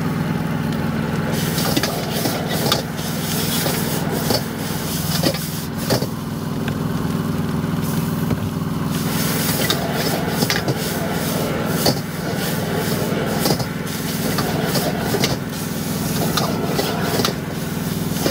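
Stir-frying in a wok: a metal spatula scraping and knocking against the pan in irregular strokes, over a steady hum from the stall's burner.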